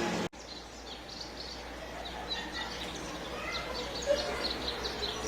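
Small songbirds chirping in many short, high notes, over a steady low rumble of background noise; the recording cuts to a new take about a third of a second in.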